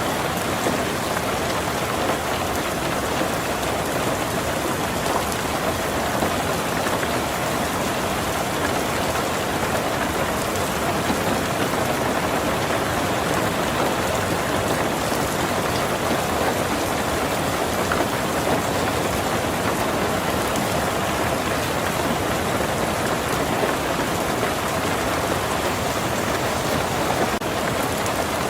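Heavy rain falling steadily on a tin roof, a dense even patter of drops.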